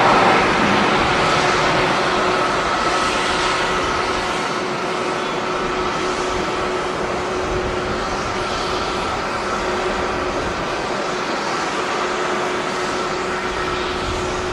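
Jet airliner engines running: a steady rushing noise with a constant whine, easing off a little over the first few seconds and then holding level.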